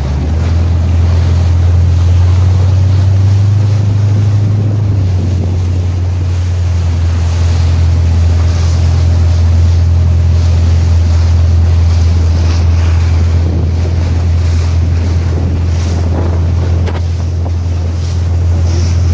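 Motorboat engine running steadily under way, a constant low drone, with strong wind buffeting the microphone and waves splashing against the hull.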